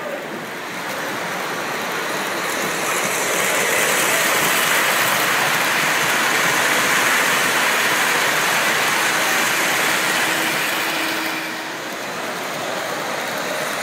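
Model train running on a layout, its steady rolling noise swelling about three seconds in, dipping briefly near the end, then rising again.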